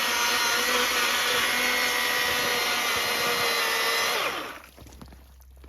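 A small motor running steadily at high speed, then spinning down and stopping about four seconds in.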